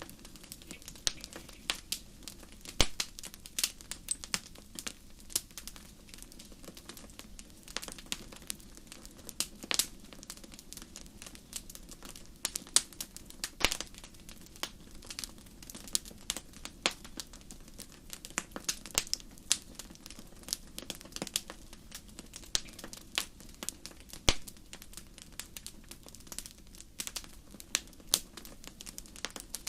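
Wood fire crackling in a fireplace: irregular sharp pops and snaps, several a second, with a few louder cracks, over a steady low background of burning.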